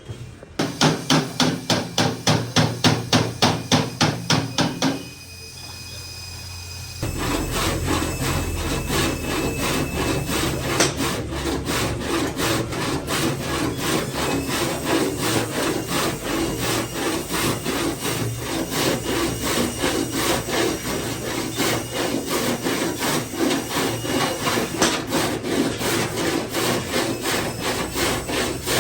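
A hand tool rasps against the car door's body panel in quick rhythmic strokes, about four a second. After a brief pause about five seconds in, the strokes go on faster and more steadily.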